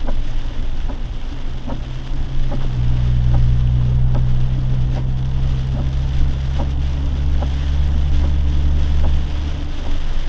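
Lifted Jeep driving, heard from inside the cabin: a steady low engine and road drone that swells about three seconds in and eases near the end, over a hiss of rain and water with faint scattered ticks.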